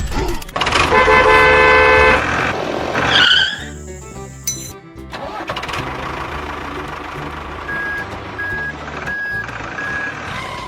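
A vehicle horn is held for about a second, roughly a second in. It is followed by steady vehicle noise under background music, and by a run of four short beeps near the end.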